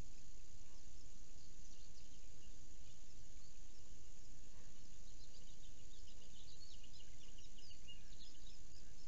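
Short, high bird chirps, a few scattered early on and then a quick twittering cluster in the second half, over a steady outdoor hiss with a constant high-pitched drone.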